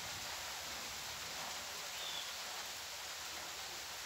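Steady rain falling on wet dirt ground and foliage, an even continuous hiss. A brief faint high whistle sounds about two seconds in.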